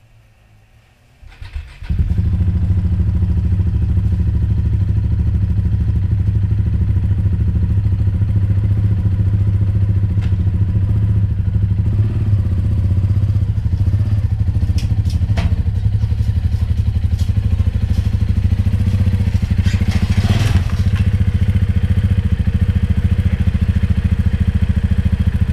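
KTM 690 Enduro's single-cylinder engine starting about a second and a half in, then running at a steady low speed while the bike is ridden up onto a hitch-mounted motorcycle carrier under its own power. There are a few metallic clicks and a clatter near the end.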